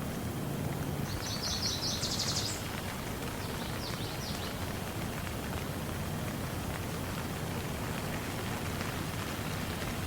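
Steady rain falling. A bird gives a quick high trill of rapid repeated notes about a second in, and a few shorter high notes around four seconds in.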